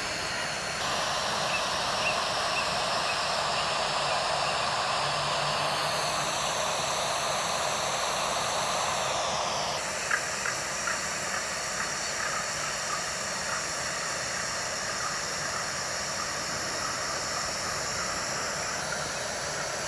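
Steady hissing outdoor ambience from a nest camera's microphone, with faint short chirps or ticks in the second half.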